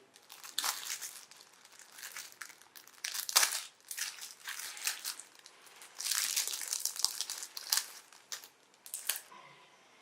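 Thin wrapping material being crumpled and crinkled by hand in irregular rustles, with a few sharper crackles.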